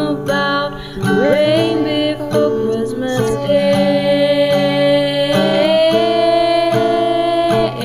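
Acoustic guitar strumming chords under a sung melody: the voice slides through a short run, then holds one long note from about halfway through until just before the end.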